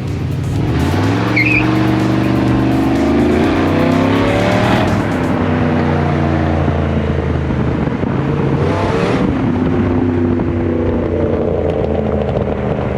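Straight-piped Cadillac DTS V8 accelerating hard, the exhaust note rising in pitch for about five seconds, then dropping at a gear change and climbing again.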